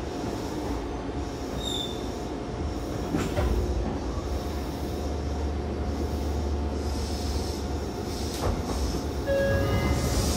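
Meitetsu 5000 series electric train running, heard from inside the car: a steady rumble of wheels on rail with a low motor hum and the odd knock from the track. About nine seconds in, a short ringing tone starts to repeat.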